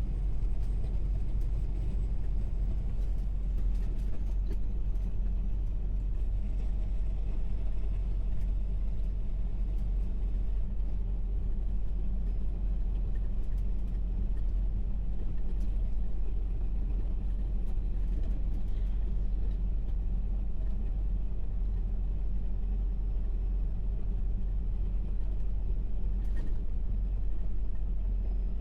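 Semi-truck under way: a steady low rumble of engine and road noise.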